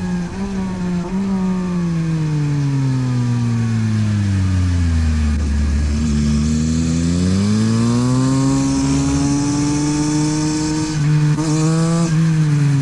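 Yamaha MT-09 SP's three-cylinder engine through a LeoVince exhaust, on track. It slows down with the engine note falling for about five seconds, with quick shift blips in the first second or so. Then it accelerates, the note rising, takes a gear change about eleven seconds in, and the revs fall again near the end.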